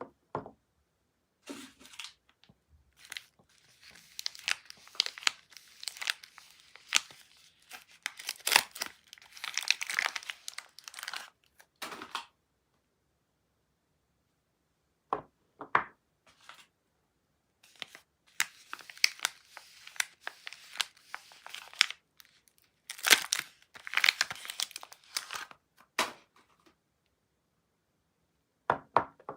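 Soap wrapping being torn open and crinkled by hand as soap bars are unpacked. The rustling and tearing come in two long stretches with a pause of a few seconds between them, and a couple of short taps fall in the pause and near the end.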